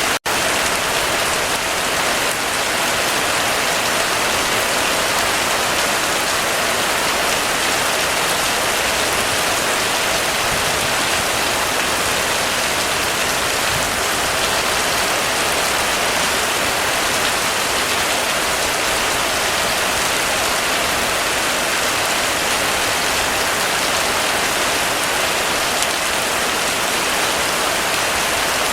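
Heavy rain falling steadily, a dense even hiss of rain on surfaces, with a momentary dropout just after the start.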